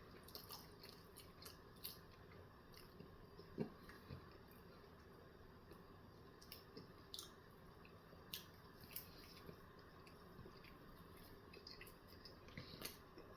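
Faint, close-up chewing of a bagel breakfast sandwich: scattered soft mouth clicks and squishes over near silence.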